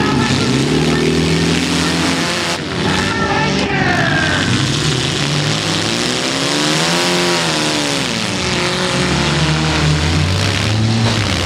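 Several car engines running and revving at once in a demolition derby. Their pitch shifts throughout, with one engine revving up and back down about halfway through.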